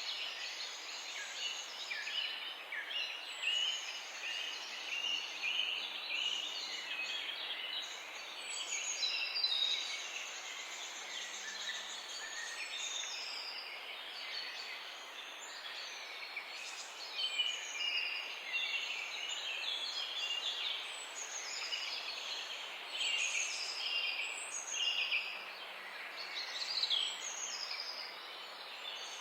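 Morning chorus of many small birds chirping and trilling at once, short overlapping calls with no single bird standing out, over a faint steady background hiss.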